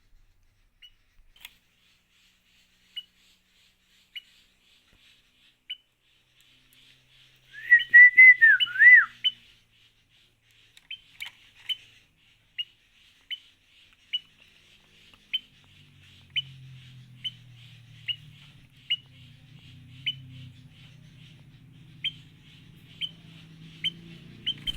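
Sooty-headed bulbuls (kutilang): short high cheeps, typical of a begging chick, repeating about once a second throughout, with a loud warbling whistled phrase that rises and falls for about two seconds around eight seconds in.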